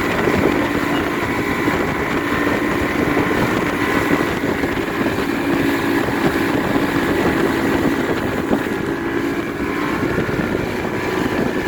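Motorboat running steadily underway: a steady engine drone under a constant rushing noise.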